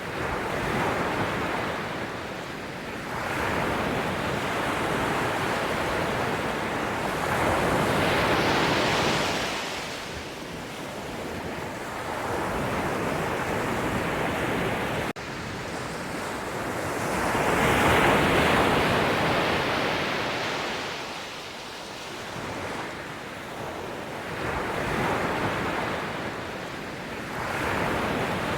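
Sea waves breaking and washing on the shore, a steady rush of surf that swells and falls back every several seconds. It is loudest about eight and eighteen seconds in, with a sudden brief break about fifteen seconds in.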